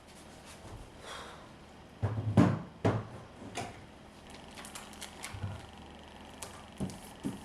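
Kitchen handling sounds: a cluster of knocks and clatter about two to three seconds in, then scattered lighter clicks and taps, as of containers being moved and a cupboard or door worked.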